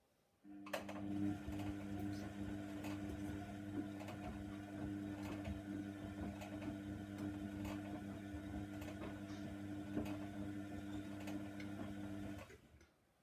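Hoover Nextra washer dryer running for about twelve seconds: a steady humming drone with irregular clicks and knocks over it. It starts suddenly about half a second in and stops sharply near the end.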